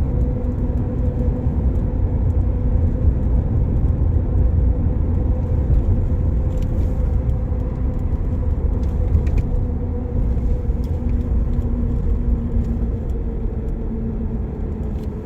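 Vehicle driving at a steady speed, heard from inside: a low engine and road rumble with a steady drone.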